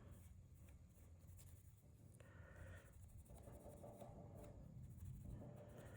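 Faint rubbing and scratching, close to silence: Nevr-Dull wadding polish being rubbed over a pocketknife's brass bolsters and pins.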